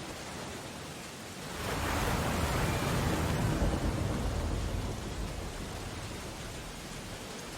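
Steady rain on window glass. About a second and a half in, an ocean wave crashes: a rising rush that fades away over about four seconds.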